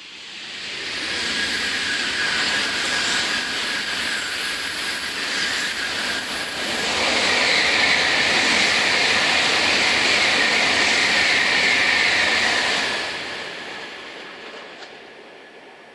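Tokaido Shinkansen high-speed train passing through at speed: a rushing, hissing rail noise that builds over about a second and a half, stays loud for about eleven seconds with a high hiss growing stronger about halfway through, then fades away.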